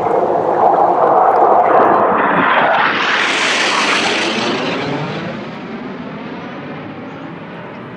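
Jet aircraft flying past: a loud roar builds, is loudest and hissiest a few seconds in, then fades away with a wavering, sweeping tone as it recedes.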